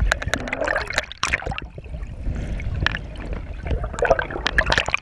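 Water sloshing and splashing right at the camera, with irregular sharp splatters and knocks as waves hit it.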